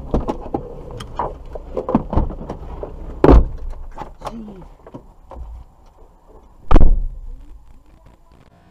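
Car doors being opened and shut: clicks and rattles, with two heavy slams, one about three seconds in and a louder one about seven seconds in.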